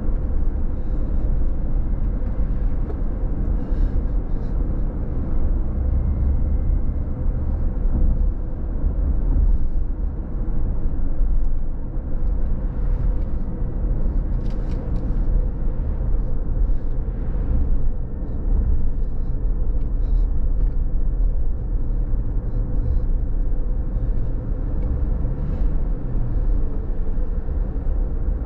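Car driving on a wet road: a steady low rumble of tyres and engine with a haze of road noise and a faint steady hum.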